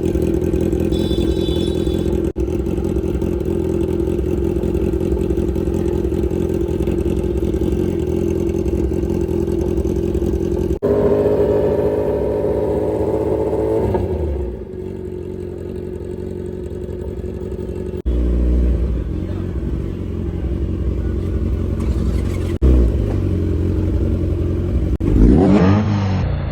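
Motorcycle engine running with an aftermarket exhaust: a steady note, then revved up about eleven seconds in and again near the end, with the sound breaking off abruptly a few times.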